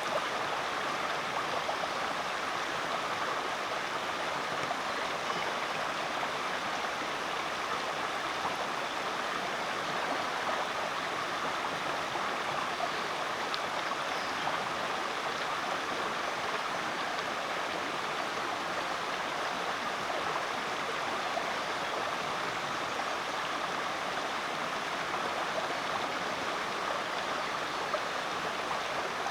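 Rainforest creek flowing over rocks: a steady, even rush of running water.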